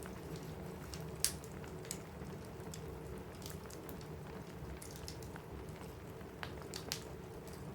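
Wood fire crackling in a fireplace, with scattered sharp pops and snaps, the loudest about a second in and a few more near the end, over a steady rain on a roof.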